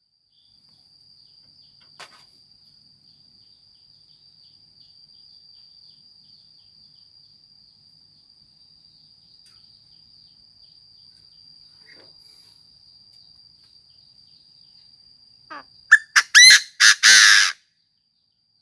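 Chinese francolin calling once near the end: a few short notes rising into two or three long, loud, harsh notes. Before that it is quiet but for a faint steady high whine.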